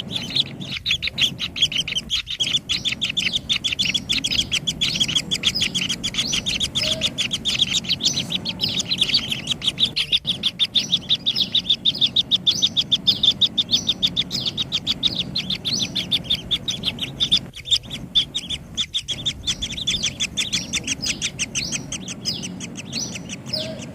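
Kingfisher nestlings in the nest burrow chirping: a rapid, unbroken run of short high-pitched calls, several a second, typical of chicks begging for food.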